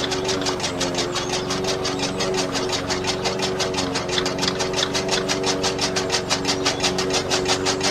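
Small motor running steadily at one pitch, with a fast, even clatter of about six beats a second.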